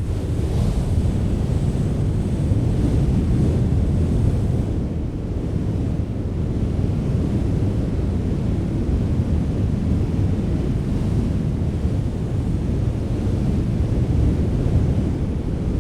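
Steady rushing wind, mostly a deep low rumble that swells and eases slightly.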